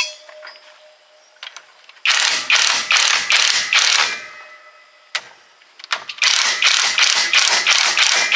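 Hand ratchet wrench being worked back and forth on a bolt of a truck gearbox. It gives two runs of quick, rasping clicks, about four strokes a second, each run lasting about two seconds.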